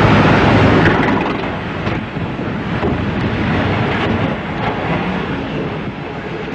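Loud rushing noise of a helicopter at close range, heavily mixed with wind on the microphone; it starts abruptly and eases a little after about a second.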